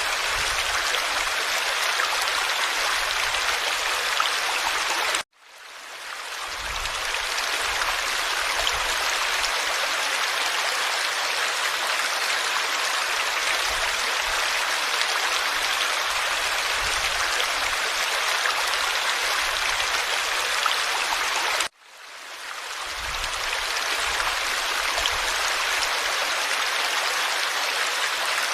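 Forest stream flowing steadily, a dense babble of water. Twice, about five seconds in and again about 22 seconds in, the sound cuts out suddenly and fades back up over a second or two.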